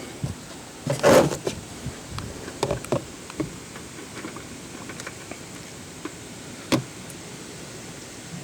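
Scattered knocks and clicks of tools and parts being handled during an oil change, loudest about a second in, with a cluster a few seconds in and one sharp click near the end, over a steady hiss.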